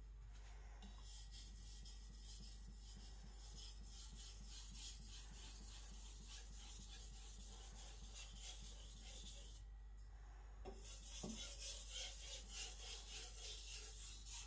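Carbon-steel gyuto edge stroked back and forth on a Naniwa Aotoshi 2000-grit waterstone: a quick, even run of faint rasping strokes. It pauses briefly about ten seconds in, then resumes a little louder. The blade is held a few degrees higher than before, forming a micro bevel at the very edge.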